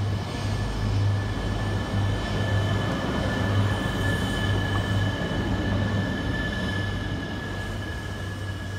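E3-series Genbi Shinkansen accelerating out of the station past the platform at close range: wheel and running noise with a low pulsing hum and a steady high whine, fading as the last car goes by near the end.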